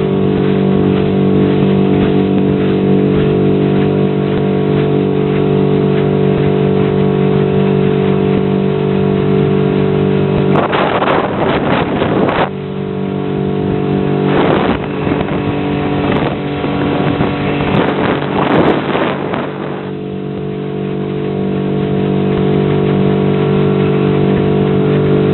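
Motorboat engine running at a steady speed, with three bursts of rushing noise around the middle.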